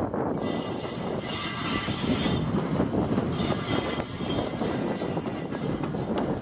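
ChS2 electric locomotive and a loaded cement hopper car rolling past: a steady rumble and clatter of wheels on the rails, with a high hiss that comes and goes twice.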